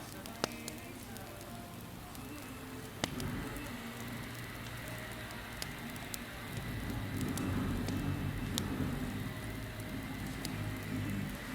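Campfire crackling: a steady hiss with scattered sharp pops and snaps, growing louder about three seconds in and again around seven seconds.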